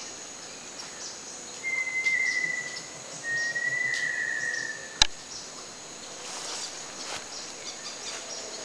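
A bird singing two long whistled notes, each about a second long and falling slightly in pitch, over a steady high insect buzz. A single sharp click about five seconds in.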